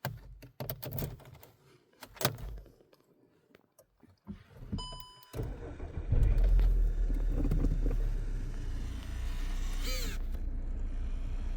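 Keys jangling and clicking, a short electronic beep about five seconds in, then a Volkswagen Golf Mk6's engine comes on and runs steadily with a low rumble.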